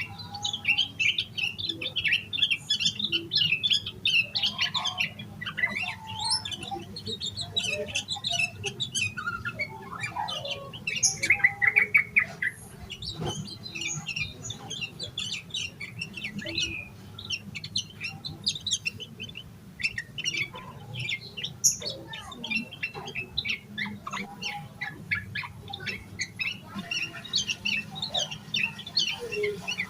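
Yellow-vented bulbul (trucukan) singing energetically: fast, continuous runs of sharp chirps and short varied phrases with hardly a pause, loudest a little before the middle.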